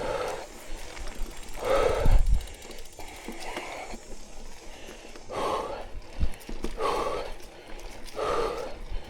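A person breathing hard after a steep uphill bike climb, heavy breaths coming about every second and a half.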